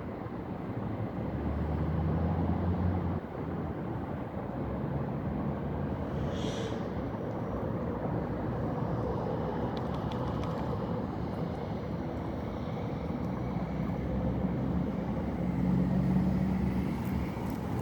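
Outdoor road traffic: a steady rumble with engine hum from passing vehicles, swelling as a vehicle goes by about two seconds in and again near the end.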